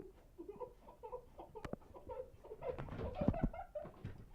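A child's voice making short wordless sounds, a few a second, with a few knocks and thumps about one and a half and three seconds in.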